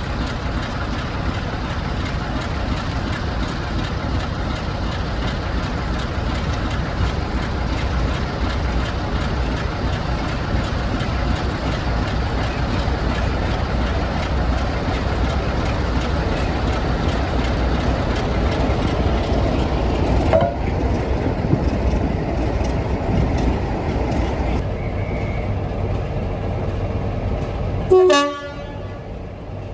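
Heritage diesel locomotive working, a steady heavy engine rumble. A brief horn note sounds about twenty seconds in, and a louder short horn blast comes near the end, after which the sound drops away.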